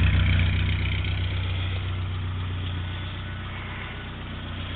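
1956 Morris Minor's 948 cc A-series four-cylinder engine idling steadily, slowly getting quieter. It runs smoothly, with no rattles or strange noises.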